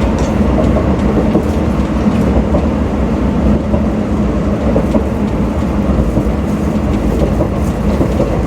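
Shin-Keisei 8800 series electric train with Mitsubishi GTO-VVVF drive running at a steady speed: a constant rumble of wheels on rail.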